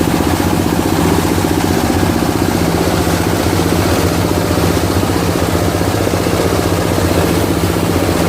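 26 hp diesel engine running steadily, driving a multipurpose chopper-grinder machine.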